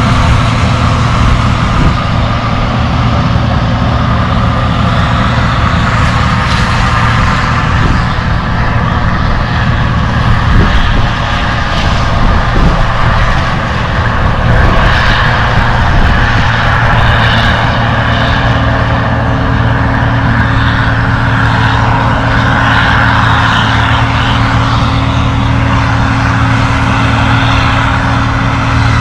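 1977 Gleaner L2 combine running steadily while harvesting: a constant engine drone with the whir of the threshing machinery.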